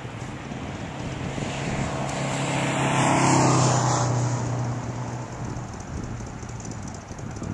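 A motor vehicle passing by. Its engine hum and tyre and wind noise swell to a peak a little over three seconds in, then fade away.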